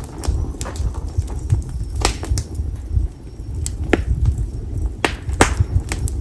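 Konara oak (Quercus serrata) firewood burning in an open fire, crackling with sharp, irregular pops, about seven in a few seconds, over a low steady rumble of the fire.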